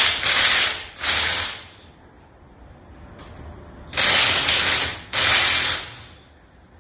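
Pneumatic shop tool, an air ratchet or impact wrench, run in four short bursts of under a second each: two near the start and two more about four seconds in, working fasteners on the car.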